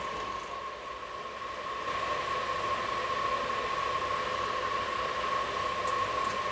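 Steady hiss and hum inside a moving air-conditioned train coach, with a steady high whine running through it.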